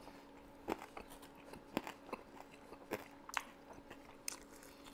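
A person chewing and biting chicken wings close to a lapel microphone: a handful of short, irregularly spaced wet smacks and crunches, with a faint steady hum underneath.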